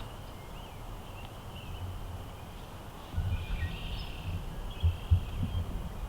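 Wind rumbling and buffeting the microphone, gustier from about halfway through, with a couple of sharp bumps near the end. Faint, thin bird chirps sound behind it.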